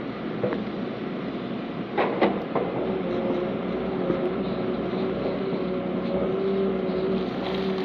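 Heavy diesel earthmoving machinery running steadily with a steady whine, and a few sharp metallic clanks about two seconds in.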